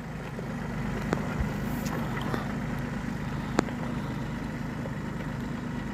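Tractor engine running steadily at a low idle, with a couple of sharp clicks over it.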